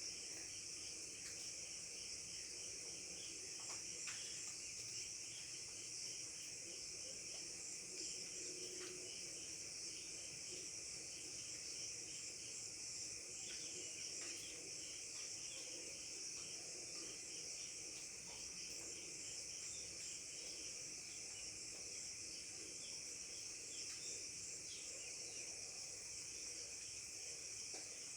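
Insect chorus, crickets chirping in a steady, high-pitched drone, with fainter rapid pulsing chirps beneath it.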